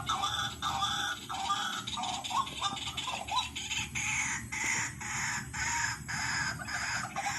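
White-breasted waterhen calling: a steady series of harsh repeated notes, about two to three a second.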